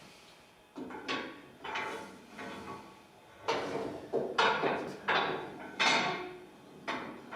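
The engine of a 1948 White WC-18 truck, a White WA-22 unit, is being turned over with a hand crank. Each stroke of the crank gives a scraping, clanking sound, about one every two-thirds of a second, louder in the second half.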